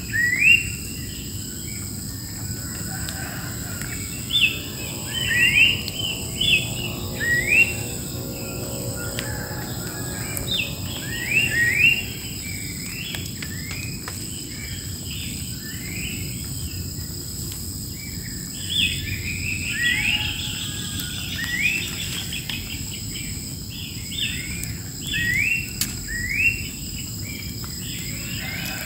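Wild birds calling repeatedly in short, quick rising notes, over a steady high-pitched drone of insects.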